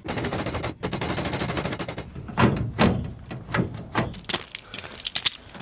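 A fast, even rattle of knocks for about two seconds, then about eight separate hammer blows on the Land Rover's aluminium rear body panel, each with a short metallic ring, as a dented corner is beaten back into shape.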